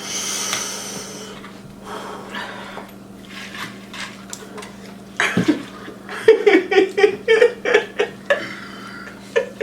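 People breathing hard and hissing air through the mouth against the chili heat of spicy ramen, then, about five seconds in, a fast run of short, loud coughs.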